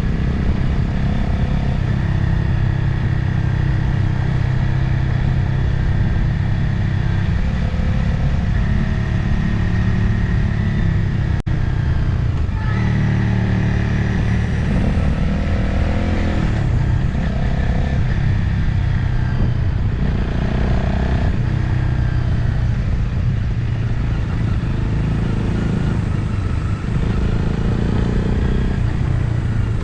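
Motorcycle engine running under way, its pitch rising and falling as the throttle changes, with wind noise over the onboard microphone.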